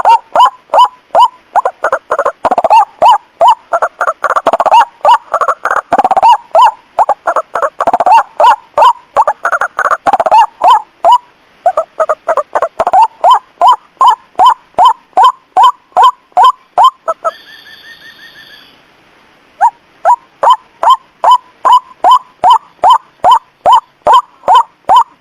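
White-breasted waterhen (ruak-ruak) calling a rapid, loud, repeated harsh note about three times a second. During the first ten seconds two call series overlap. The calling breaks off for about two seconds around 17 seconds in, where a faint, higher-pitched tone sounds, and then picks up again.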